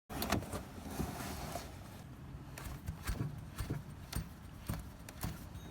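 Car running with a low rumble and irregular knocks and rattles, about one or two a second.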